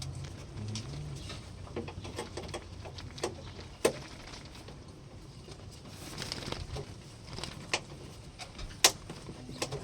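A pigeon feeding its squabs: scattered pecking taps, beak clicks and shuffling, with two sharp clicks about four and nine seconds in.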